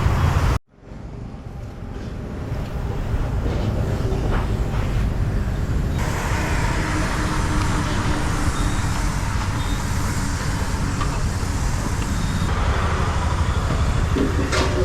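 Steady rush of wind and road noise over a running motorcycle engine, as heard while riding. It fades in after a brief cut to silence near the start.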